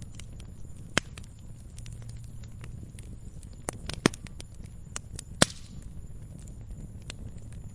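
Wood fire crackling in a fireplace: a steady low rumble of burning with many small ticks and crackles, and a few sharp loud pops, the loudest about four and five and a half seconds in.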